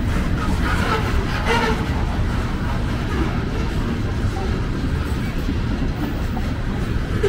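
Freight train's covered hopper and tank cars rolling past close by: a steady low rumble of steel wheels on rail, with a brief higher-pitched sound about a second and a half in.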